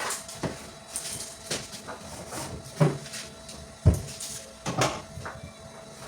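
Kitchen items being handled and set down during tidying: a series of separate knocks and clunks, about six in all, the loudest a thump about four seconds in.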